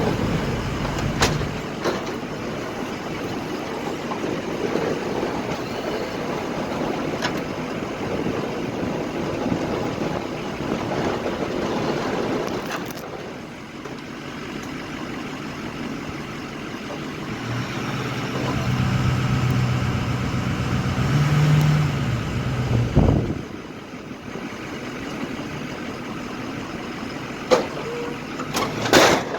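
Plow truck's engine running with a steady hum, revving up briefly and then easing off about two-thirds of the way through, with a few sharp knocks.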